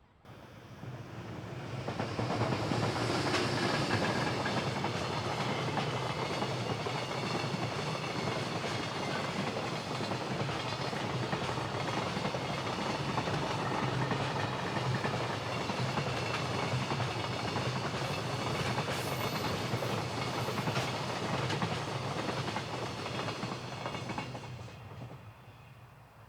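A long freight train passing close by, its wagons rumbling and the wheels clicking over the rail joints. It comes up quickly in the first two seconds, holds steady as the wagons roll past, and fades away near the end.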